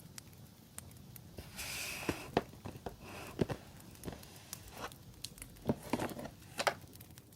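Paper and plastic stationery packaging rustling and crinkling as it is handled, with scattered sharp crackles.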